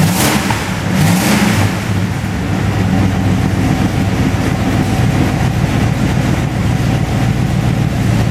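Rat rod's engine running through its newly built exhaust with a muffler and turned-down tailpipes, blipped a couple of times in the first second or two, then settling to a steady idle. With no header gaskets fitted yet, the exhaust leaks at the headers.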